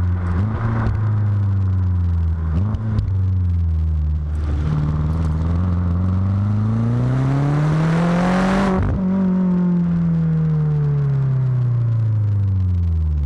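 BMW F10 M5's twin-turbo V8 running through a Supersprint rear-muffler exhaust. It gives two quick dips in engine note early on, then revs up smoothly for about four seconds; the throttle is cut suddenly and the revs sink slowly back down.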